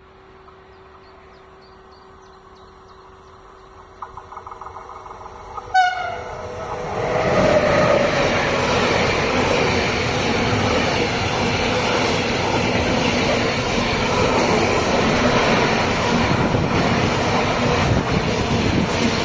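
A train approaches, gives a short horn blast about six seconds in, then passes close by with a loud, steady rumble of wheels on the rails.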